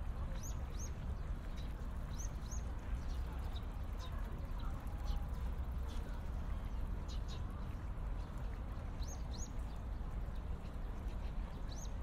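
Small birds chirping in short high notes, mostly in quick pairs, a few times over a steady low rumble of outdoor park ambience.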